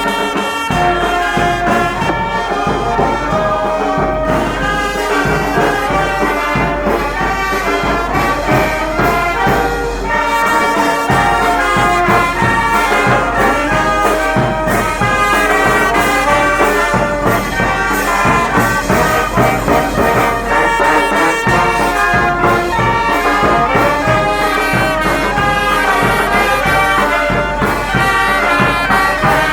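A Guatemalan procession band of trumpets and trombones playing a son, a slow melody of held notes over a steady bass.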